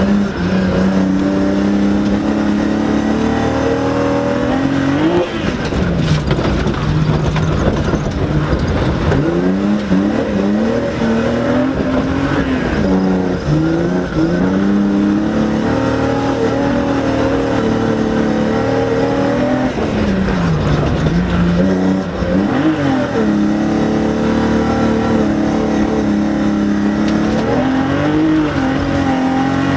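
BMW E30 rally car engine running hard, heard from inside the car, its pitch held high and then dropping and climbing again several times, over a steady rush of tyre and road noise.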